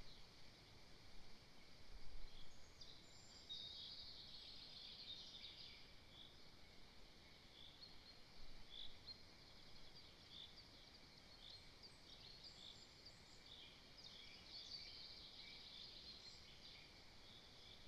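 Faint chorus of small songbirds: many short, high chirping notes overlapping throughout. There is a brief low thump about two seconds in.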